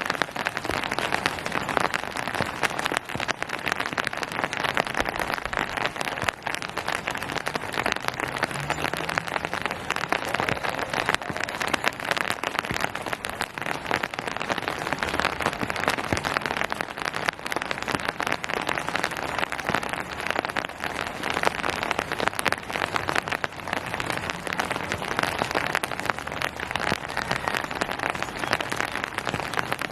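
Steady rain falling on surfaces, a dense patter of many small drop ticks.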